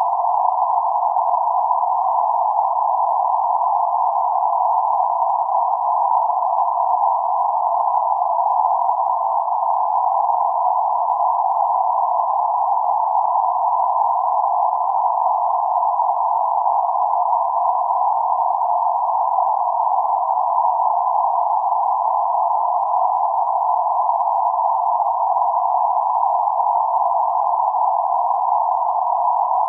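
Steady relaxation noise narrowed to a band centred around 848 Hz, an even mid-pitched hiss with nothing above or below it, unchanging throughout.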